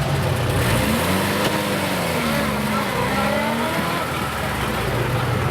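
An off-road vehicle's engine revving up and down several times, with a steady low engine drone at the start and again near the end.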